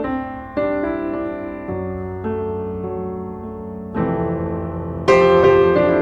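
Background piano music: slow chords struck every second or two, each left to ring and fade, with a louder chord about five seconds in.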